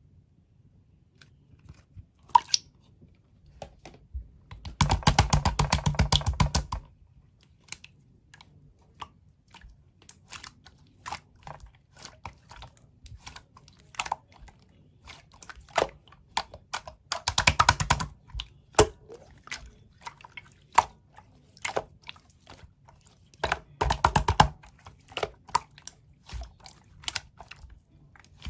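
Glossy slime being pressed and squeezed by hand, giving sticky clicks and pops, with three longer runs of rapid crackling clicks, the first about five seconds in.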